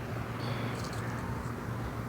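Steady low hum of an idling vehicle with faint background noise.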